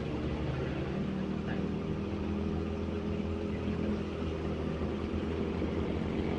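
Kawasaki ZX25R's 250 cc inline-four engine running at low, steady revs.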